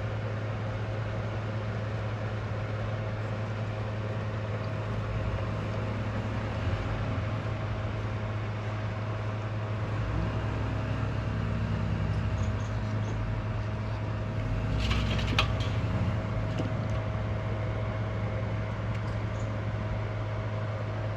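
A steady low mechanical hum runs throughout, with a few light clicks about fifteen seconds in.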